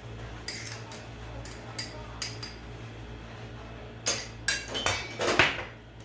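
Kitchen spoon and bowl clinking and scraping: a few light clicks, then a louder clatter of several knocks and a scrape near the end.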